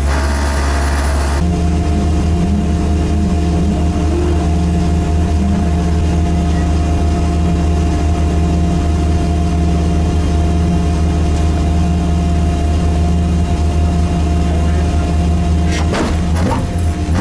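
Drift car's engine idling steadily at an even, unchanging pitch, heard from inside the stripped cockpit, with a short hiss over it in the first second and a half.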